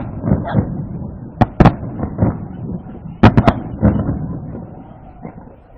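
Aerial fireworks shells bursting in a rapid series of sharp bangs with rumbling echoes. Two loud bangs come about a second and a half in and three close together just past the middle, then the bursts die down near the end.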